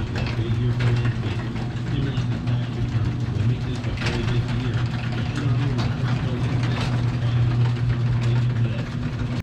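Dirt late model race car's V8 engine running at a steady idle, its first run after a fuel pump swap.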